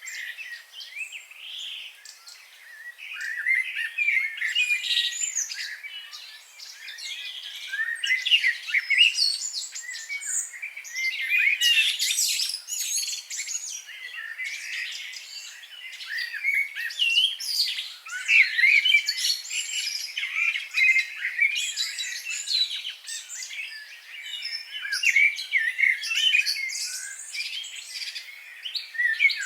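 Several small birds singing and chirping at once, a dense chorus of quick high chirps and trills that swells and fades in waves every few seconds.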